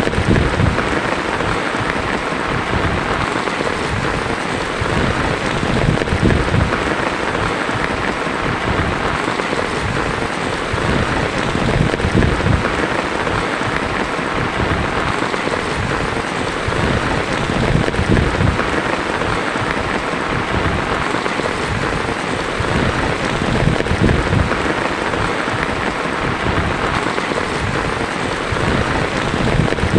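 Heavy rain on a tin roof, a steady rushing hiss with an uneven low rumble beneath it.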